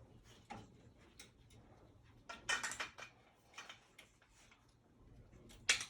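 A few scattered light knocks and clicks, as of small hard objects being handled: a cluster about two and a half seconds in and a sharp click near the end.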